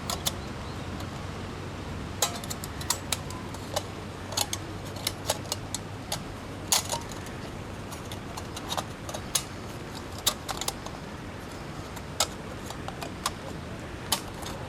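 Steady rain with irregular sharp pops and ticks scattered over it.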